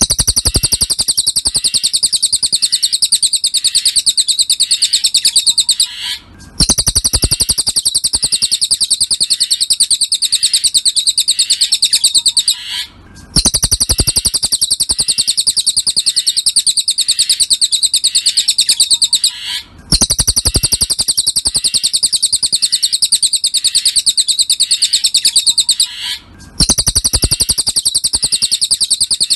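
Cililin bird song: a loud, high-pitched, very rapid trill in bouts of about six seconds with short breaks between them, repeating evenly like a looped recording.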